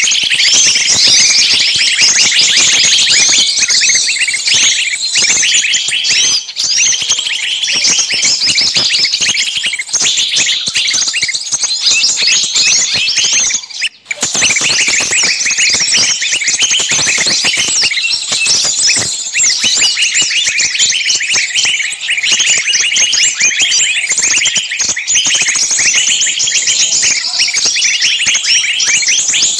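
Dense chorus of many small birds chirping and twittering at once, without a break except for a brief drop-out about halfway through.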